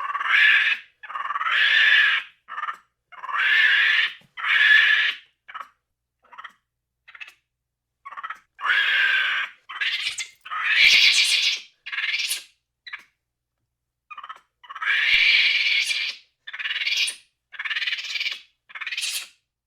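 Monkeys calling: a series of short, high-pitched cries, each about half a second to a second long, in irregular groups with short pauses between them.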